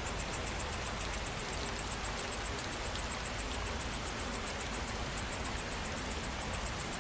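Steady rain falling, with a high-pitched insect call repeating in quick, even pulses, several a second, that breaks off briefly about five seconds in.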